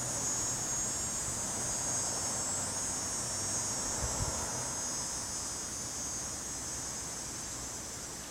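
A steady, high-pitched chorus of insects, fading slightly toward the end, over a low rumble of wind.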